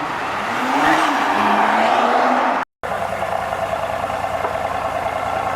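Supercar engine revving up through its exhaust, rising in pitch for about a second and then holding at a loud pitch. About two and a half seconds in, it cuts off abruptly and another car's engine takes over, running steadily at an even pitch.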